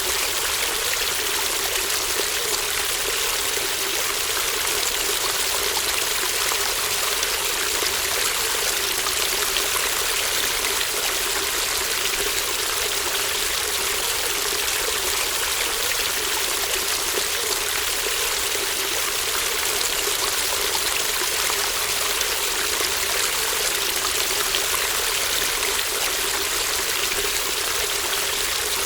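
Shallow babbling brook running steadily, a continuous watery hiss with light trickling and no break or change.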